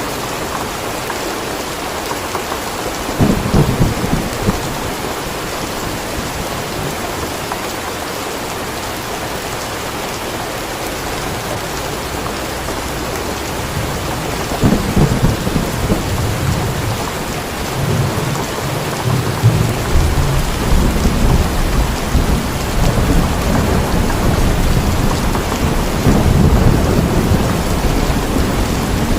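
Steady rain with thunder: a short low rumble about three seconds in, another around halfway, then a long rolling rumble through the last third.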